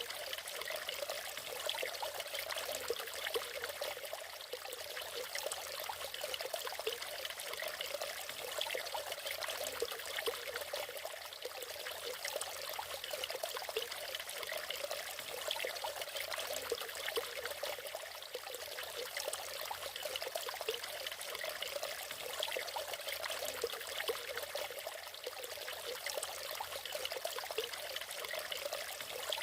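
Natural waterfall: water splashing and trickling steadily, without a deep rumble.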